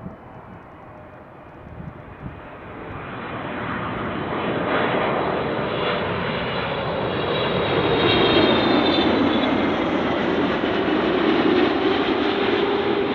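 Jet airliner on short final approach passing low overhead. Its engine noise builds from about three seconds in and is loudest in the second half, with a high whining tone that drops slightly in pitch as it passes.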